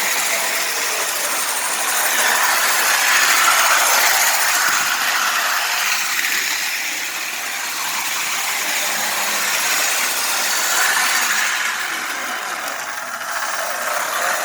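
Lionel toy train running on its track: a steady rattling rush of wheels and motor that swells twice.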